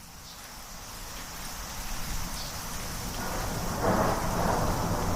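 Rain with rolling thunder, fading in from silence and growing steadily louder, with a swell of rumble about four seconds in.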